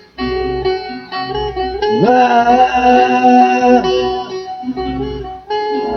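A band playing an instrumental passage with guitar chords over a regular low beat. About two seconds in, a note slides up and is held for almost two seconds.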